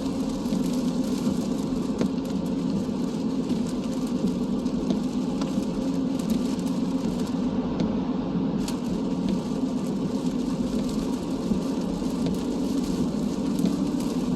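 Car cabin noise while driving in the rain: a steady hum of engine and tyres on wet road, with scattered light taps of raindrops on the car.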